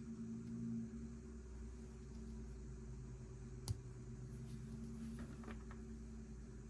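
Lego pieces being handled and snapped together: one sharp click a little past halfway, then a few faint clicks, over a steady low hum.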